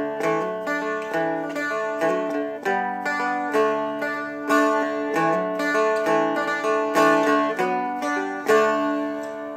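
Seagull Merlin M4, a four-string dulcimer-style instrument, flatpicked one note at a time: a melody line of separate plucked notes, a few a second, over open drone strings that ring on underneath.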